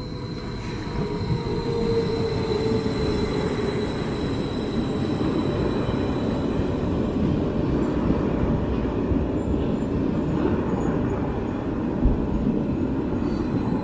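Regional passenger train running into the platform, its wheels rumbling on the rails. The sound builds over the first two seconds and then holds steady, with a whine falling slightly in pitch early on.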